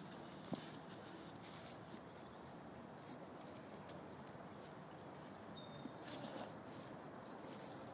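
Faint steady background noise with a few short, high bird chirps in the middle, and a small knock just after the start.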